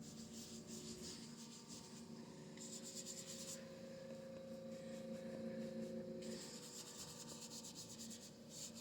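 A paintbrush scrubbing acrylic paint onto canvas in quick back-and-forth strokes, in two spells, over a faint steady hum.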